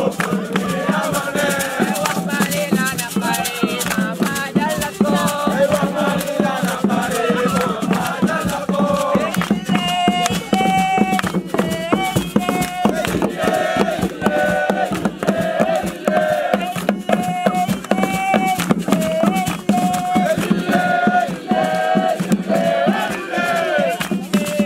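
Group singing and chanting over shaken rattles keeping a fast, steady beat. From about ten seconds in, a clearer melody of short held notes comes to the fore.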